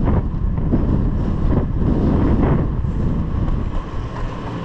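Steady low rumble of wind on the microphone mixed with vehicle noise.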